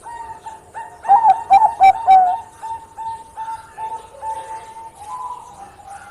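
Bangkok-strain zebra dove (perkutut) cooing: a loud run of quick rolling notes about a second in, followed by a string of short, evenly repeated coos.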